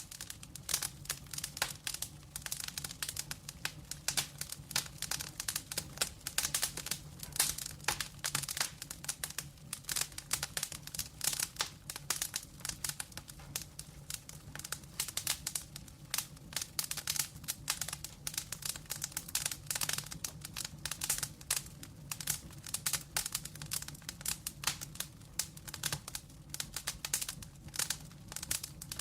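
Wood fire burning logs, crackling steadily with dense, irregular pops and snaps, over a low steady hum.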